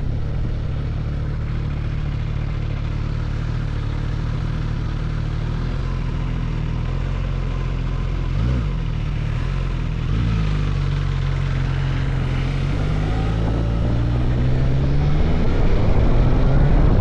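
Suzuki GSX-S1000GT's inline-four engine running under way. Its pitch dips and comes back briefly about halfway through, then climbs with rising level near the end as the bike accelerates.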